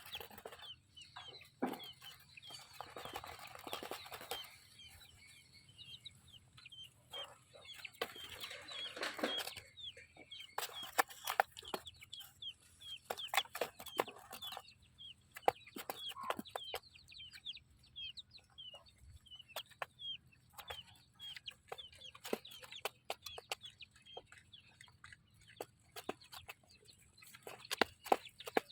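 Baby chicks peeping, a quick run of short high chirps several a second, mixed with scattered clicks and brief rustling.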